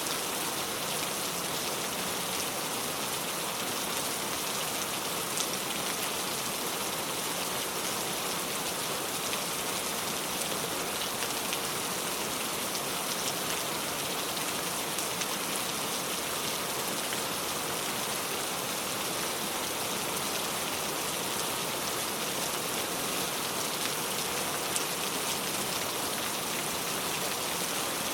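Steady rain falling on a car, with a dense, even patter of drops.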